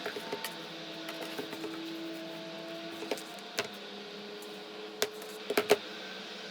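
Steady faint hum in a small room with scattered light clicks and taps, a few sharper clicks close together about five and a half seconds in.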